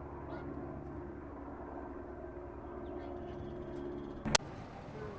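Vehicle engine running with a steady low hum, and a single sharp click about four seconds in.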